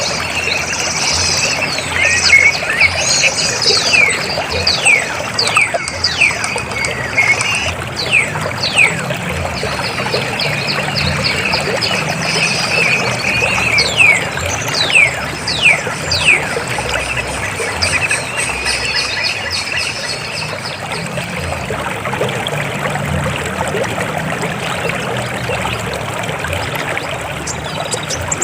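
River water flowing and splashing steadily, with a run of short, quick falling chirps over it through the first two-thirds or so.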